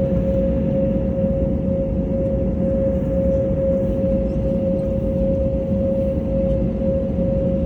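Steady machinery drone: a low rumble with a constant, unwavering hum on one pitch, running evenly without change.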